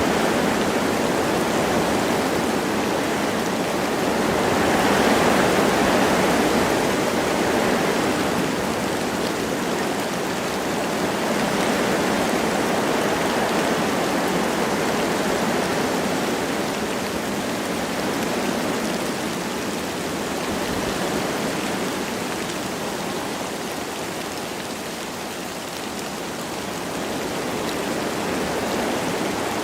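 Wind rushing through forest trees with light rain, a steady even hiss that swells about five seconds in and then eases back.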